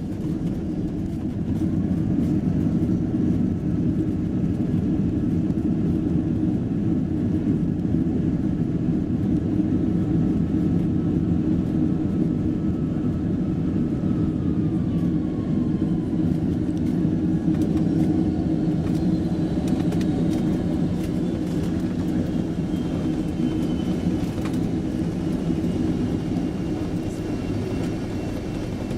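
Steady low rumble inside the cabin of a Boeing 767-300ER around landing, from engine and airflow noise. Thin whines fall slowly in pitch through the second half, with a few light knocks near the end.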